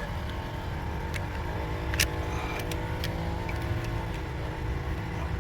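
Ratchet with an extension and universal joint turning to loosen a spark plug on the rear bank of a Toyota 3.5 V6, giving a few sharp metallic clicks over a steady low mechanical hum.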